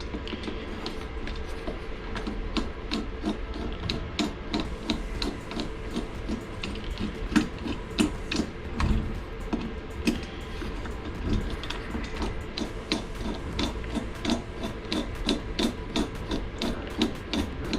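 Four small screws being turned out of the fan housing of an Eberspacher Airtronic D2 diesel heater with a hand tool: a long run of small, closely spaced clicks with rubbing and scraping.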